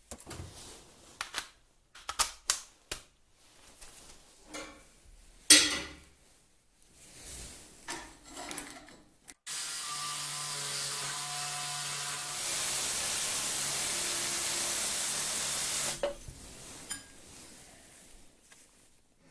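Workshop tool work: irregular clicks and knocks with one sharp knock, then a steady noisy tool sound for about six seconds that gets louder partway through and cuts off suddenly.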